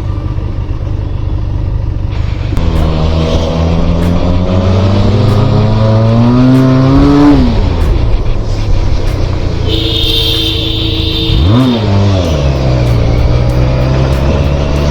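Motorcycle engine under way, its pitch rising steadily as it accelerates for several seconds, then dropping sharply as the throttle closes. It runs on steadily, with a quick dip and climb in pitch near the end. A brief steady higher tone sounds around ten seconds in.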